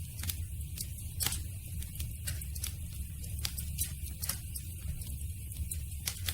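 Campfire burning, the wood crackling with frequent sharp pops over a low steady rumble of the flames.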